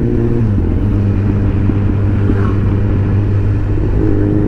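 Motorcycle engine running as the bike rides along at a steady pace. Its note dips slightly about half a second in and rises gently near the end as the bike picks up speed.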